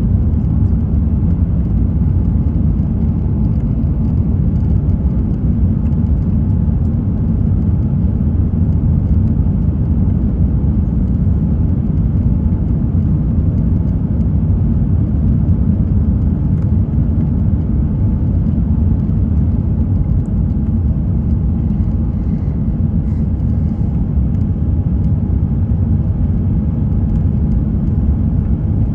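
Steady low rumble of an Airbus A350-900's Rolls-Royce Trent XWB engines and airflow, heard inside the economy cabin, holding an even level throughout.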